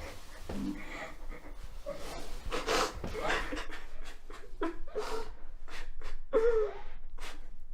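A person breathing heavily in uneven, gasping breaths, with a few short catches of crying: distressed sobbing.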